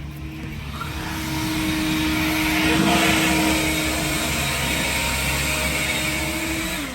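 A small racing engine of a kart or micro sprint lapping at a steady speed. It grows louder to about three seconds in as it passes, then eases off and drops in pitch near the end.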